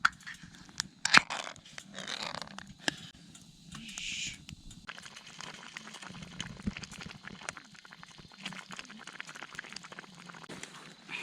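Campfire crackling with many small sharp pops, after a few louder crunches and rustles of something being handled in the first seconds.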